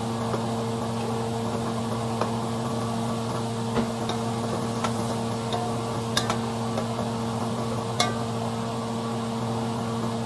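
Tomatoes frying in a pan with garlic: a steady sizzle over a steady low electrical hum, with a few sharp clicks of a utensil against the pan.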